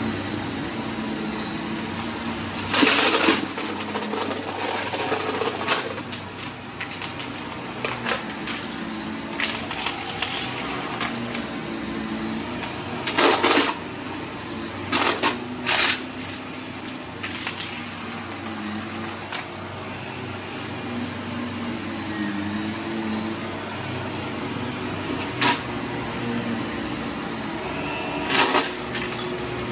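Vacuum cleaner motor running steadily while picking up debris in a mess test. Several short, loud bursts of rattling come through as debris is sucked in.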